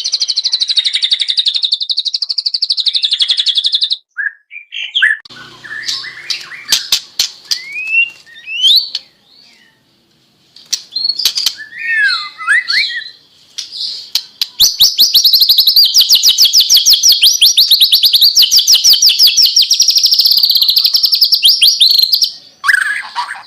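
White-rumped shama (murai batu) singing in full voice. It opens with a fast run of repeated high notes that stops about four seconds in, then moves into varied whistled phrases and sharp clicks. About fourteen seconds in it begins a long, rapid, loud run of repeated notes, the 'tembakan' (shots) of a gacor shama, which breaks off near the end.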